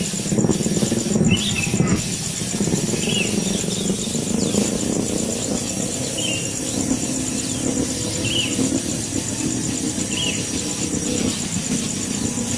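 Short high bird chirps repeating every one and a half to two seconds, over a steady low rumble and a thin, fast-pulsing insect trill.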